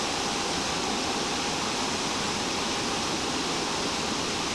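Steady rushing of a nearby waterfall, an even hiss of falling water.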